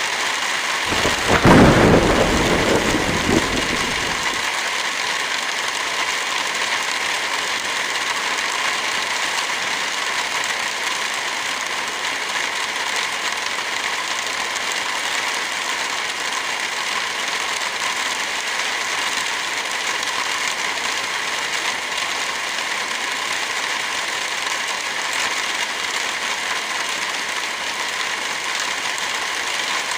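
Heavy rain falling with a steady hiss. About a second in, a thunder rumble swells, loudest at the start, and cuts off abruptly after about three seconds.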